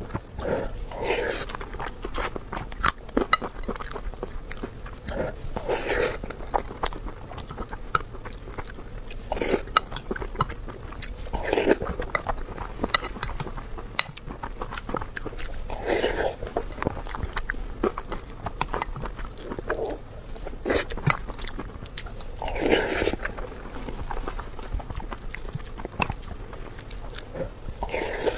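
Close-miked chewing and wet mouth sounds of someone eating braised pork belly and tomato-and-egg rice from a spoon, with many small clicks and a louder swell every few seconds.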